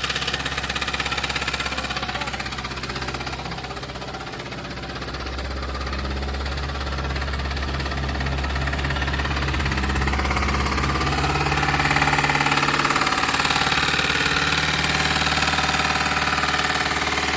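Car engine running in a steady note, dipping a little and then rising gradually in speed and loudness through the middle before holding.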